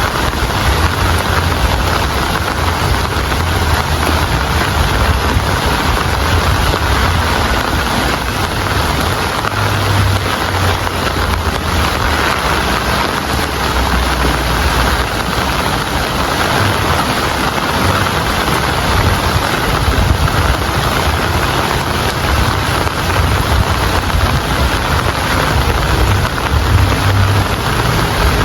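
Steady rain, a dense even hiss, with a low rumble underneath that swells and fades.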